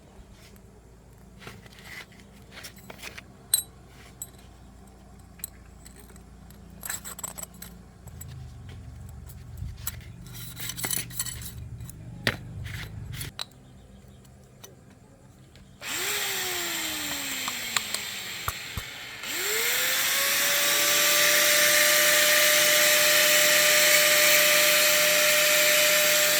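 Scattered clicks and taps of metal tools and parts being handled. About 16 seconds in, a handheld electric power tool starts with a loud rush and slows in pitch. It stops briefly, then spins up again and runs steadily at high speed.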